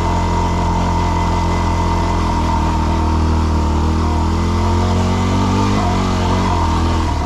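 Yamaha WR250R's 250 cc single-cylinder four-stroke engine running at low, steady revs under load on a rocky trail climb, its pitch wavering slightly with the throttle and dipping briefly near the end.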